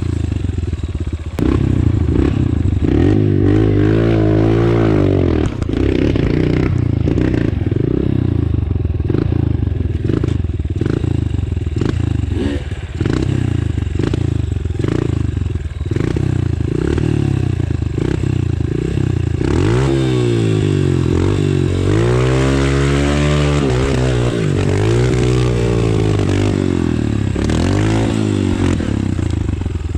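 Off-road motorcycle engine running under load, its revs rising and falling over and over as it is ridden over the course, with some clattering.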